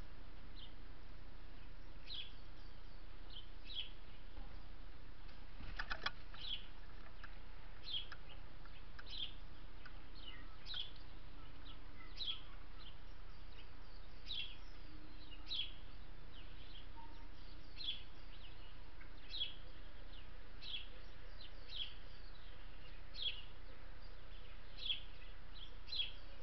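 A small bird chirping over and over, short falling chirps about once a second or so, with a brief clatter of clicks about six seconds in, over a steady background hiss.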